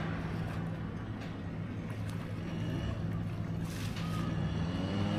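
Low, steady motor drone that fades in and out under a haze of wind noise, with a brief hiss a little after three and a half seconds in.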